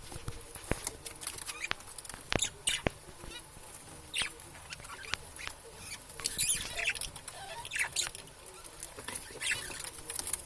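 Budgerigars chirping and chattering, a string of quick high chirps with sharp clicks among them.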